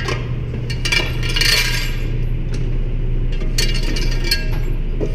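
Spent brass cartridge cases clinking together as they are gathered up and dropped: two clusters of light metallic clinks, over a steady low hum.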